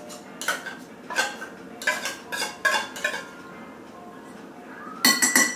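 Metal kitchen utensil clinking and knocking against a bowl, about six separate clinks over the first three seconds, then a quick run of louder clinks about five seconds in.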